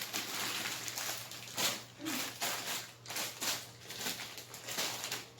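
Plastic bags and food packaging rustling and crinkling in irregular bursts as groceries are handled.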